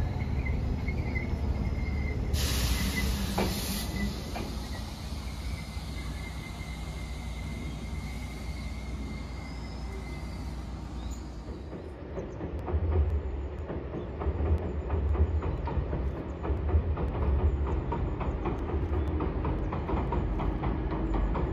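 A Chichibu Railway electric train pulls into a platform with a thin steady squeal and a short blast of air hiss about two seconds in. From about twelve seconds in, a train rumbles across a steel girder bridge, its wheels clacking regularly over the rail joints.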